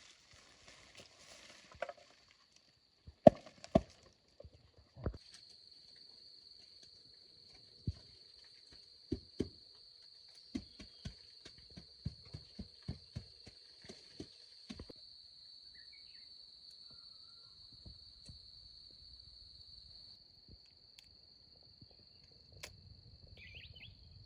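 Irregular sharp knocks and taps, about a dozen in a run near the middle, over a steady high-pitched insect drone that starts about five seconds in.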